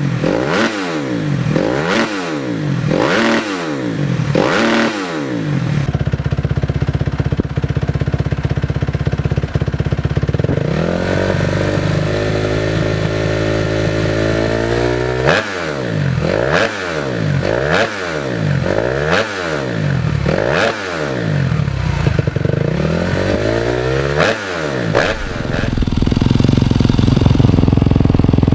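Motorcycle engine revved over and over, its pitch rising and falling a little more than once a second. In between it runs steadily, with one long rising rev about halfway through, then more quick revs and a steady run near the end.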